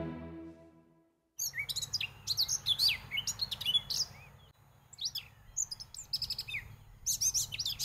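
Songbirds chirping and singing: many short, quick notes that sweep up and down in pitch, starting about a second and a half in, just after a music track fades out.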